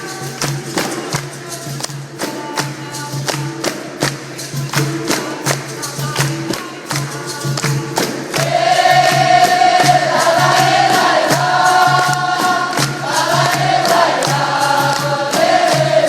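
Capoeira roda music: quick, steady percussion strikes under group singing, with the chorus of voices coming in louder about halfway through.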